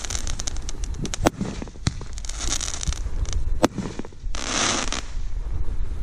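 Consumer fireworks going off: a rapid string of sharp bangs and crackles, with two longer hissing bursts about two and a half and four and a half seconds in.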